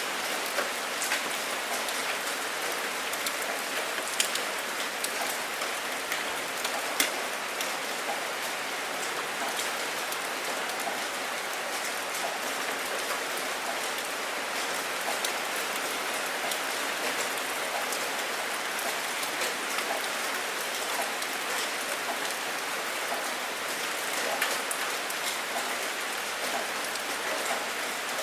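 Steady rain falling, a continuous hiss with scattered individual drops ticking on a surface, a few louder drop hits among them.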